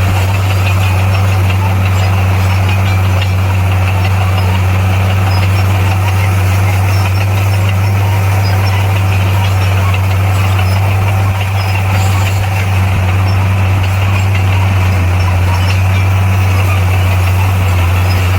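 Komatsu bulldozer's diesel engine running at a steady speed: a loud, deep, even drone that holds level throughout, with a little dip in loudness about halfway through.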